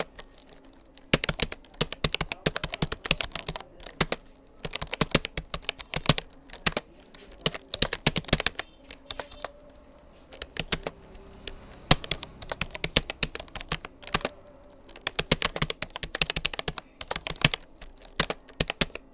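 Rapoo computer keyboard being typed on in quick bursts of keystrokes with short pauses between words and phrases, during a timed typing test.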